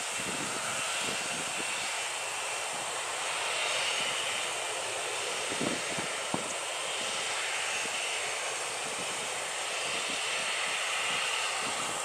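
Jet engines of a JAL Boeing 737 running: a steady rushing noise that swells and fades slowly, with a couple of brief low knocks about halfway through.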